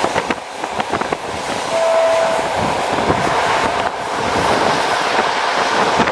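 Train running on the rails, heard from aboard a carriage: a steady rush and rumble with a few sharp clicks in the first second. A short steady tone sounds about two seconds in.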